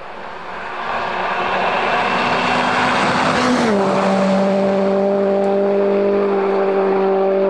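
Rally car coming in at full throttle, its engine note dropping in pitch as it passes about three and a half seconds in, then holding a steady high-revving note.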